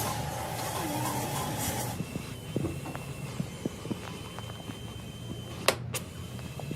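A steady spraying hiss that cuts off abruptly about two seconds in, followed by scattered light clicks and knocks of hand work and two sharp clicks near the end.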